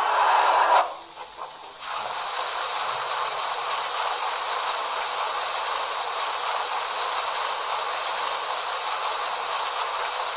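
ESU LokSound 5 sound decoder in a Märklin H0 BR 45 model steam locomotive, heard through the model's own loudspeaker: a loud sound stops just under a second in, and after a short lull a steady hiss of venting steam starts about two seconds in and carries on.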